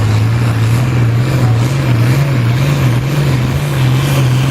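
International Harvester 966 tractor's diesel engine running loud and steady under load, pulling the sled down the track.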